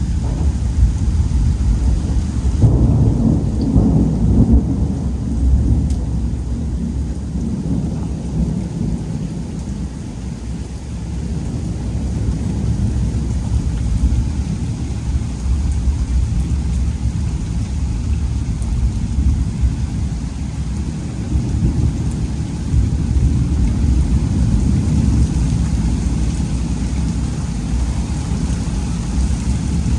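Thunderstorm: a long, continuous rumble of rolling thunder over steady rain, swelling about three seconds in.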